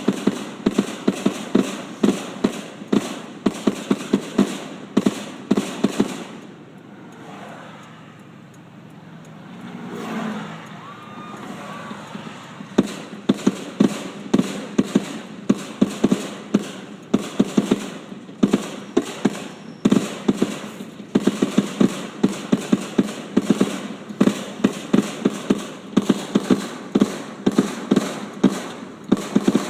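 Fireworks going off in rapid crackling pops, several a second. About a quarter of the way in there is a lull of a few seconds, then the popping starts again.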